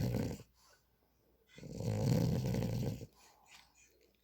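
French bulldog snoring in its sleep: the end of one long, rattly snore, then a full snore of about a second and a half near the middle, with quiet breathing between.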